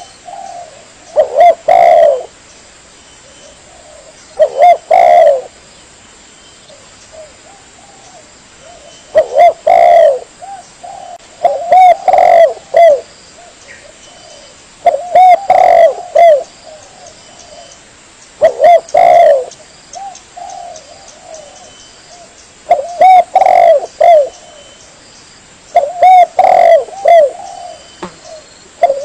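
Spotted dove cooing as a lure call: about eight phrases of several short low coos, one every three to four seconds.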